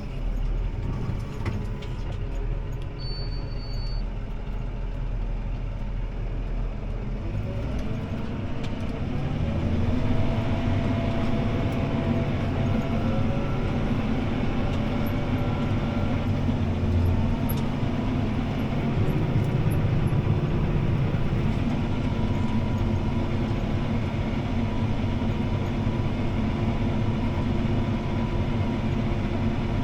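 CLAAS ARION 650 tractor's six-cylinder diesel engine running steadily, heard from inside the cab. About eight seconds in the engine speed rises, then it holds steady and a little louder.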